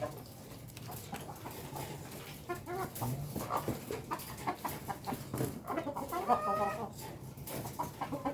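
Ayam kampung (native village chickens) clucking, with short calls scattered through and one longer drawn-out call about six seconds in.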